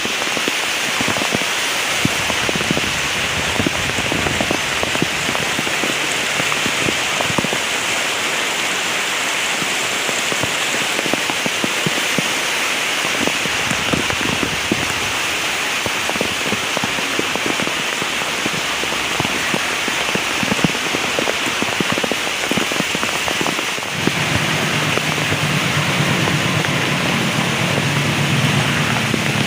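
Heavy rain falling steadily, with many individual drops striking a surface. About 24 seconds in, a low steady rumble joins underneath the rain.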